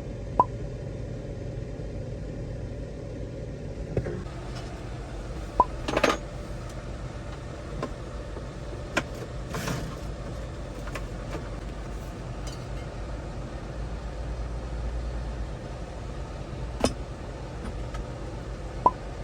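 Scattered sharp metallic clicks and clinks of tools and parts being handled during blower motor work on a truck, about half a dozen in all, over a steady low hum.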